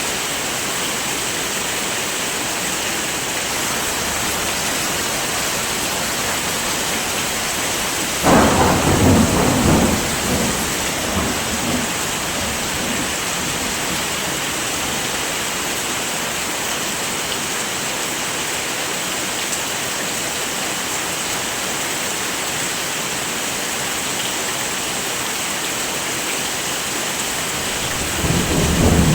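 Steady heavy rain hissing throughout, with a sudden clap of thunder about eight seconds in that rumbles away over a few seconds. Another thunder rumble builds near the end.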